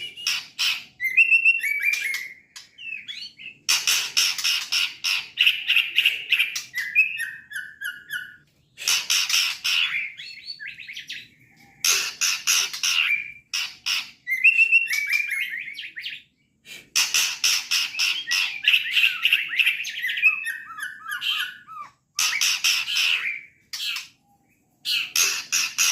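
A juvenile murai batu (white-rumped shama) singing in repeated bouts of a few seconds with short pauses between them. The bouts mix fast, scratchy strings of notes with short whistled phrases, some stepping down in pitch.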